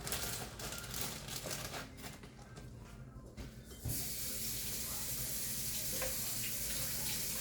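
Light crinkling and small clicks, then a kitchen tap turned on about halfway through, its water running in a steady stream into the sink.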